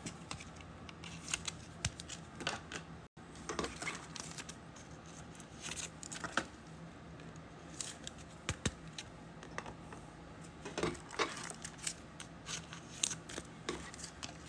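Trading cards and card packaging being handled: scattered light clicks, snaps and rustles at an irregular pace.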